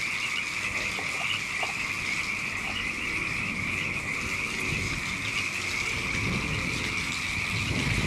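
A steady chorus of frogs calling, with wind rumbling on the microphone, the rumble heavier in the second half.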